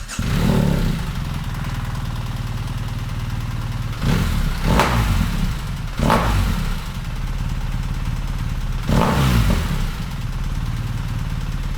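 BMW R1300GS boxer-twin engine starting up and idling through an Akrapovič full exhaust system with decat header, loud, blipped to higher revs about four to five, six and nine seconds in and settling back to idle each time.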